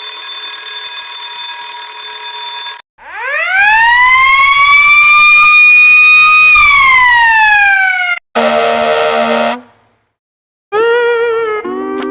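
A run of separate sound-effect clips: a steady buzzing tone for about three seconds, then a siren that winds up, holds and winds down over about five seconds, then a short low buzz, and a wavering tone near the end.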